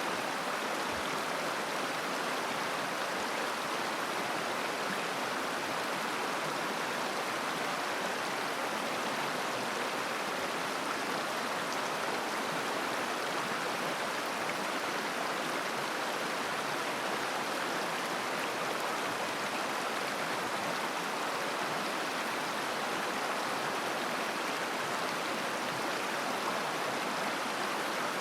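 Mountain river flowing and babbling over stones, a steady rushing sound.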